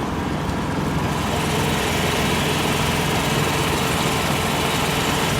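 Zaporozhets air-cooled V4 engine of a homemade all-terrain vehicle running steadily, its noise growing brighter about a second and a half in.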